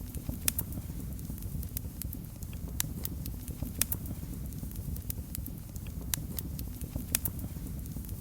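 Wood fire in a fireplace crackling: irregular sharp pops and snaps, about one every second or so, over a steady low rumble of the flames.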